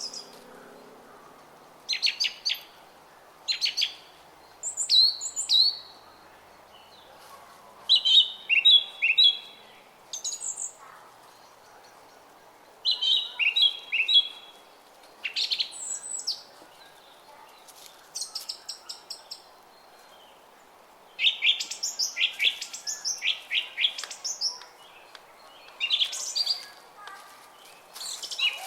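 Songbirds singing in short bursts of quick, high chirps every few seconds over the steady babble of a small brook.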